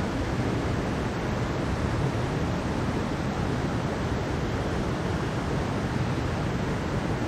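Mountain stream water rushing steadily, an even, unbroken wash of noise with no pauses.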